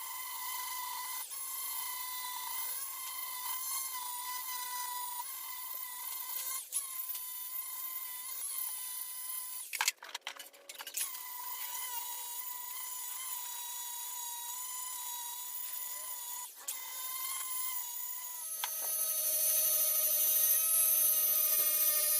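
A power tool's electric motor running with a steady high-pitched whine. It breaks off briefly about ten seconds in, then near the end drops in pitch and gets louder.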